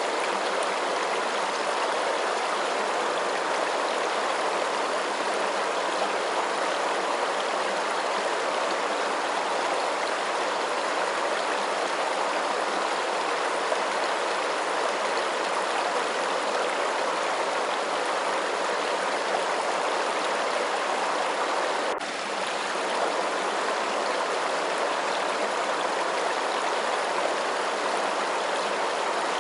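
Steady rush of flowing stream water, with a brief dip in level about three-quarters of the way through.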